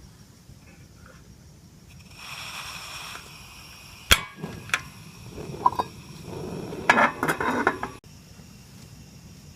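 Sharp clinks and knocks of objects being handled: a brief rustle about two seconds in, single clicks about four and five seconds in, then a quick cluster of knocks near the end. Insects trill steadily behind.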